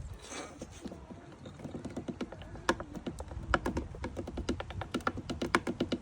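Rapid, irregular tapping and clicking as a swan's bill pecks and dabbles at a duck-feed dispenser. The taps thicken into a fast patter from about halfway through. It is heard as a weird noise.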